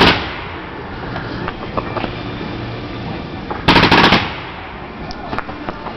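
A 49-shot mortar firework cake firing off its shells. There is a loud bang right at the start, then a rapid volley of several bangs about four seconds in, with rumbling noise between the bursts.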